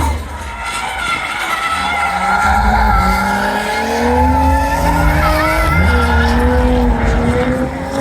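Drift car's engine revving hard, its pitch climbing steadily for a few seconds and then holding, with tyres skidding.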